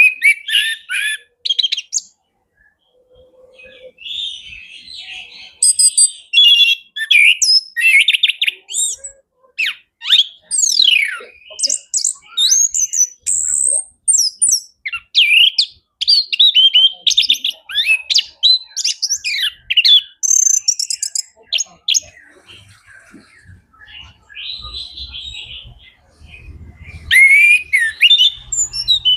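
Male chestnut-capped thrush (anis kembang) singing a long, varied song of quick whistles, rapid trills and sweeping glides, phrase after phrase with only short pauses.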